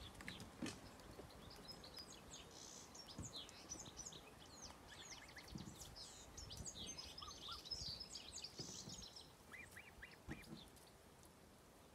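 Faint, high-pitched bird chirps and peeps, many short calls in quick runs that thin out after about ten seconds, with a few lower calls among them and some soft low thumps underneath.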